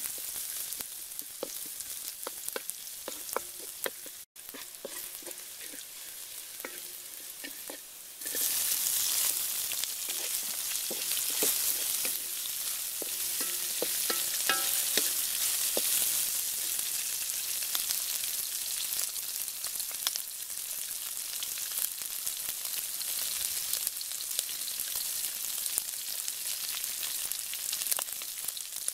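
Chopped garlic and chili frying in oil in a metal wok over a wood fire, with a wooden spatula scraping and tapping. About eight seconds in the sizzle jumps much louder and stays loud as chicken livers fry and are stirred.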